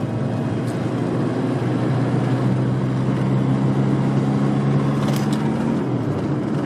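Car driving along a road, heard from inside the cabin: a steady engine hum over tyre and road noise.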